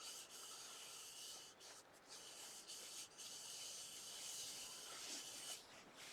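Faint rubbing as citrus burnishing oil is wiped by hand onto a turned mulberry bowl. The rubbing stops about five and a half seconds in.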